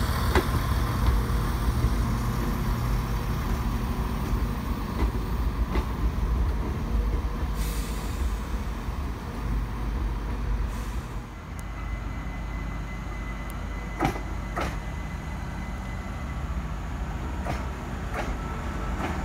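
Diesel multiple unit's engines running with a low steady rumble as the train moves through the platform. About eleven seconds in the rumble drops away, and a steady high whine with a few sharp clicks takes over from a Class 387 electric multiple unit standing at the platform.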